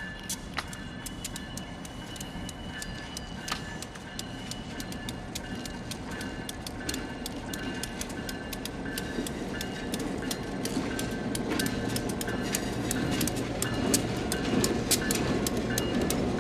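A diesel-powered train drawing nearer, its low engine rumble getting steadily louder, with many sharp clicks from the wheels over rail joints growing denser toward the end. A couple of steady high tones sound over it.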